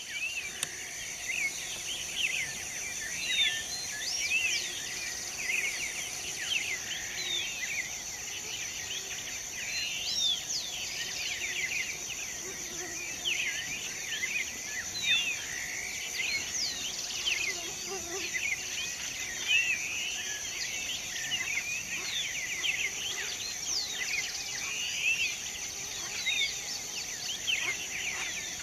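Dawn chorus of many birds, with overlapping short chirps and whistles throughout, over a steady high-pitched insect drone.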